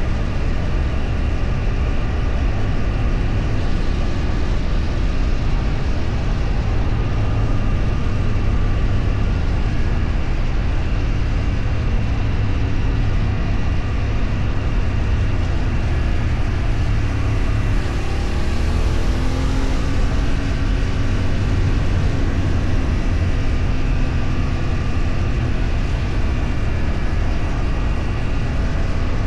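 A vehicle on the move: a steady low rumble of engine, road and wind noise. About two-thirds of the way through, an engine note falls in pitch.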